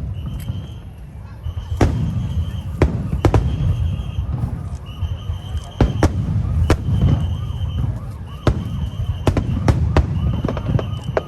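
Aerial fireworks going off: many sharp bangs, some in quick clusters, over a constant low rumble. A high steady tone sounds again and again in roughly one-second stretches, and a wavering tone rises and falls through the second half.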